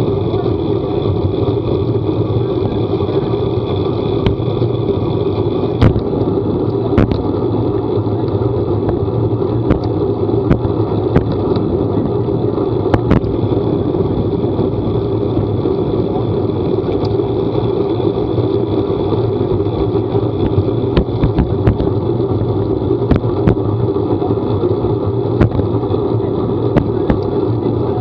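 A vehicle running steadily with a constant drone that never lets up, scattered all through with short sharp ticks.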